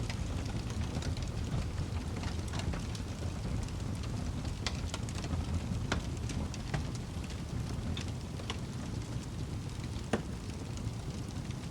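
Wood fire burning in a fireplace: a steady low rumble of flames with irregular sharp crackles and pops from the burning logs, a few louder pops among them.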